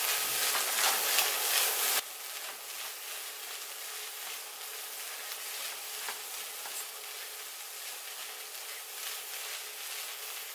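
Summer squash, garlic, onion and egg frying in oil in a skillet on high heat, a steady sizzle as a spatula stirs them. The sizzle is loud at first, then drops abruptly to a quieter level about two seconds in.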